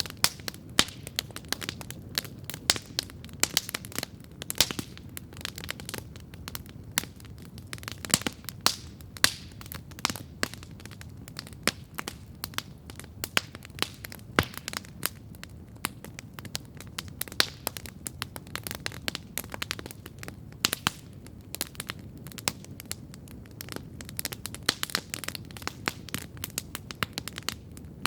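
Wood campfire crackling steadily: irregular sharp pops and snaps, several a second, some much louder than others, over a low steady rush.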